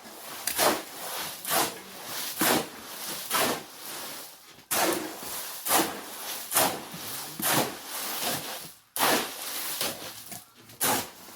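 Shovel scraping through a wet concrete mix of sand and gravel by hand, one rough stroke roughly every second.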